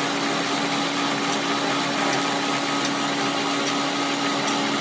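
A workshop machine running steadily: a constant hum over an even hiss.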